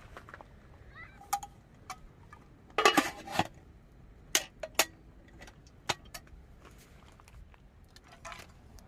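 Scattered light clinks and knocks of hard objects being handled, about a dozen in all, with a short busy cluster about three seconds in.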